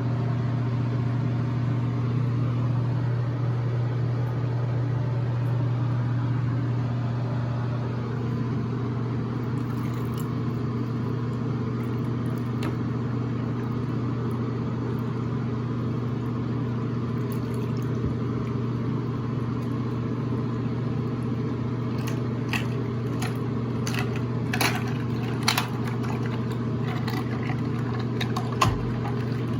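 A steady mechanical hum, low and even, with a few small sharp clicks and taps in the last several seconds.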